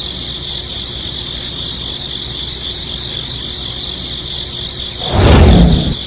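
Small DC toy motor running steadily with a high whine. A brief loud low rumble cuts in about five seconds in.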